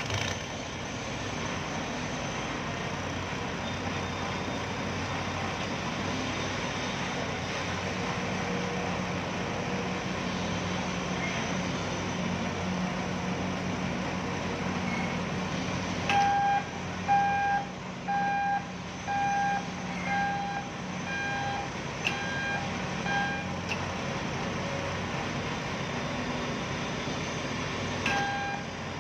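A heavy truck's engine running steadily, then its reversing alarm beeping about once every 0.7 seconds for several seconds past the middle, starting again just before the end as the vehicle backs up.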